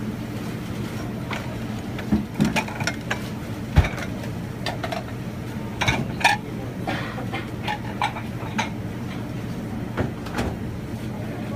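A steady machinery hum with scattered clatters and knocks, the loudest a dull thump about four seconds in.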